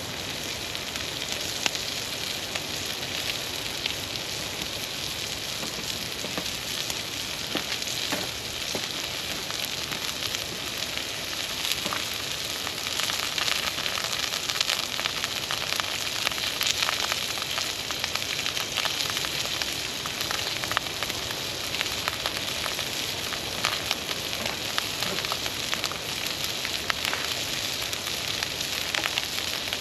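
Campfire burning with a steady sizzling hiss and many small irregular crackles and pops.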